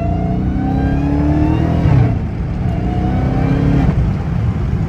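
Dodge Charger Hellcat Redeye's supercharged 6.2-litre V8, still on its stock exhaust with the mid mufflers fitted, accelerating hard: the engine note climbs, drops at an upshift about two seconds in, climbs again and drops at a second upshift near the end.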